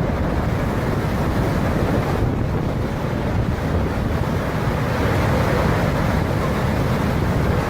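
Strong storm wind blowing hard and buffeting the microphone: a steady, loud rushing noise.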